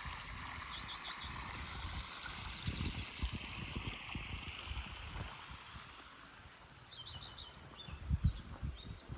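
Outdoor background with a bird chirping in short quick series, a few notes at a time, near the start and again in the last few seconds, over a steady hiss and scattered low thumps and rumbles.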